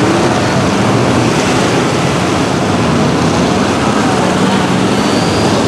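Loud, steady noise of a lifted mud truck's engine running, with a dense rushing hiss over a faint steady low hum.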